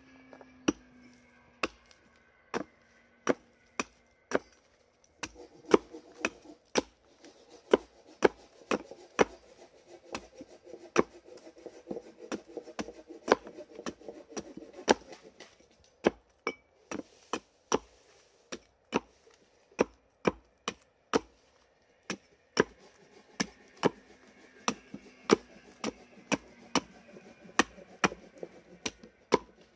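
Wood being chopped with a blade: a long, even run of sharp knocks, about two a second.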